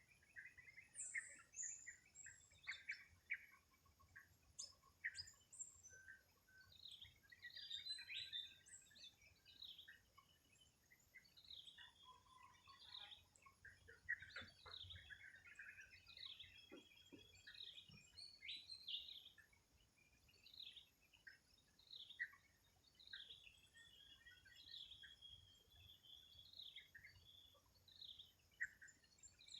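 Several small birds chirping and calling faintly, in many short, quick notes that overlap one another.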